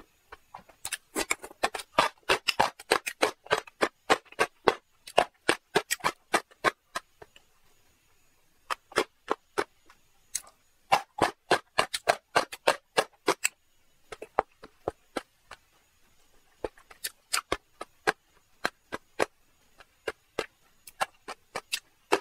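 Close-miked wet chewing and lip smacking of a mouthful of food, a rapid run of sharp clicks in three spells with short pauses between.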